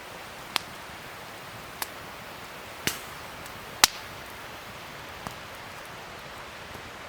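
Wood fire crackling: a steady hiss broken by about five sharp pops, the loudest a little under four seconds in.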